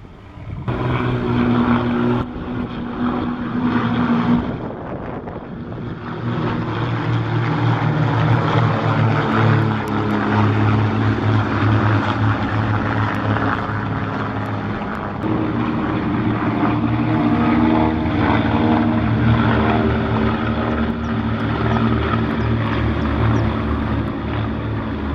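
A formation of four Fokker S.11 Instructor piston-engined trainers droning past with their propellers. The combined engine note starts abruptly just after the start and shifts in pitch a few times as the aircraft pass.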